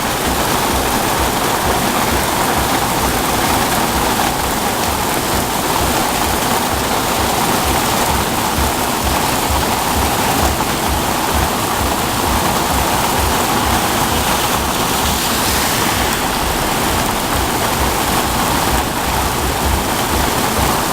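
Heavy rain pouring down steadily onto the street, a dense, even hiss.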